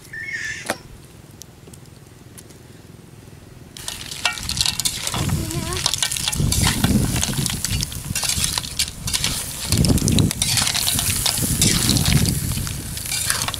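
Shrimp and squid sizzling in a metal wok over a wood fire, with a spatula scraping and clattering against the pan as they are stirred. The sizzling starts suddenly about four seconds in, after a quieter stretch.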